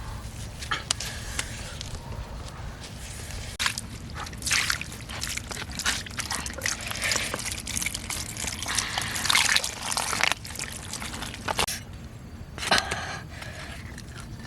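Water sloshing and trickling, with irregular splashes and short clicks.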